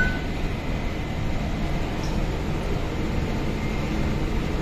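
Steady low rumble and hum inside an MTR East Rail Line R-Train electric train car. The last of the door-closing warning beeps cuts off right at the start.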